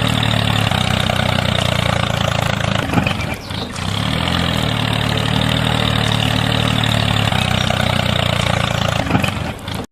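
Tractor engine running steadily with a deep hum. About three and a half seconds in it briefly drops away and shifts pitch, then settles back to a steady run.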